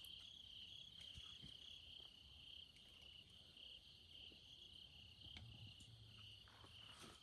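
Faint, steady high-pitched chirping of insects, pulsing slightly.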